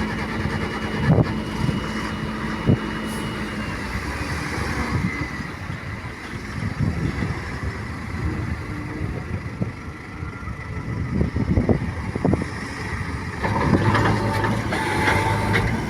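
Heavy diesel engines running steadily, with a few sharp knocks. About three-quarters of the way through, an engine note comes in louder and lower.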